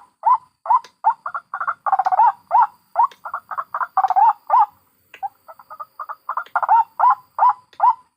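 White-breasted waterhens calling, adult and chick voices mixed: a fast run of short, hooked, pitched notes, about three to four a second, in loud cackling phrases with a brief pause about five seconds in.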